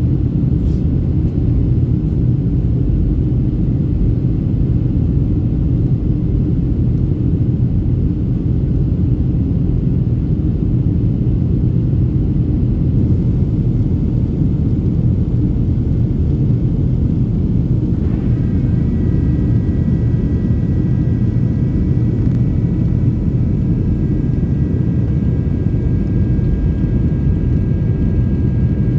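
Boeing 737-600 cabin noise: the steady low rumble of its CFM56 engines and airflow, joined about two-thirds of the way through by a steady whine of several high tones.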